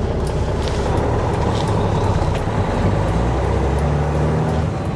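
Dump truck's diesel engine and road noise heard from inside the cab while driving, loud and steady. The cab sounds louder than it should, which the driver thinks may be missing insulation.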